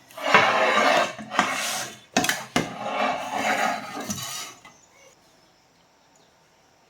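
Scraping and rubbing, in two stretches of about two seconds each, broken by a few sharp clicks around the middle.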